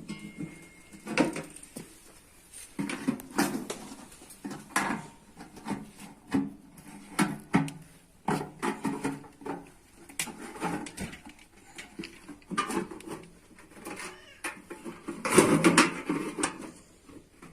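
Irregular metal knocks, clanks and scrapes from hand work on a sheet-metal bread pan, some briefly ringing, with a louder cluster near the end.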